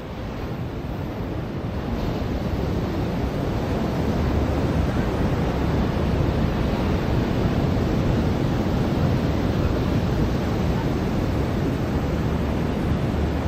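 Ocean surf breaking and washing up a beach, its rush swelling over the first few seconds and then holding steady.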